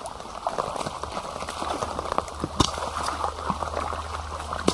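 Heavy rain falling, with many irregular drop taps and water sloshing and splashing.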